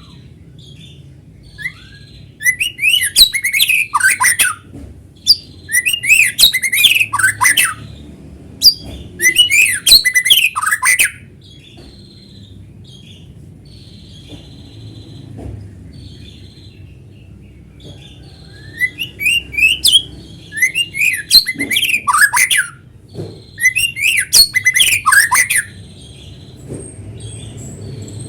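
White-rumped shama singing in loud bursts of rapid, varied whistled phrases, six bursts of two to three seconds each, with softer short calls in the gaps. A faint low hum lies underneath.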